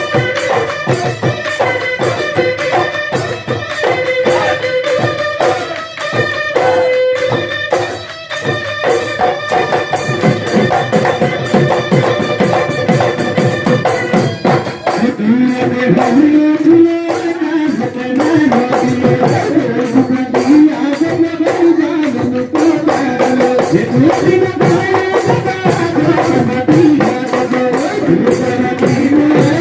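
Assamese Bihu husori folk music: drums beaten in a quick, dense rhythm with cymbal strokes. About halfway through, a wavering melody line joins them.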